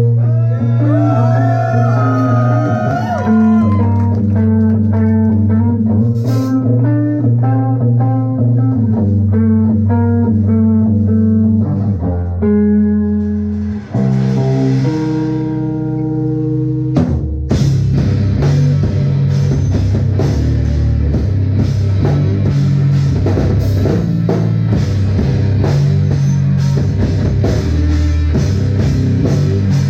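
Live rock band starting a song. Guitar and bass play a riff with bent notes for about the first twelve seconds, a held chord rings for a few seconds, then the drum kit comes in with the full band about seventeen seconds in.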